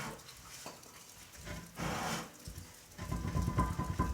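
Aerosol can of starter fluid sprayed in two short hissing bursts, one at the start and one about two seconds in. It is followed about three seconds in by a run of rapid clattering.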